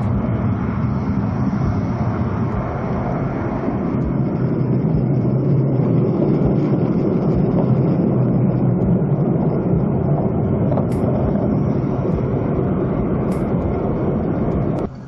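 Loud, steady mechanical noise, like a vehicle or a large machine running, that cuts off suddenly near the end.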